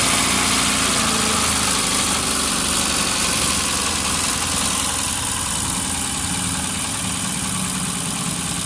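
Tata Nano's small two-cylinder petrol engine idling steadily just after starting, with the radiator cap off for a coolant top-up; it settles slightly quieter over the few seconds.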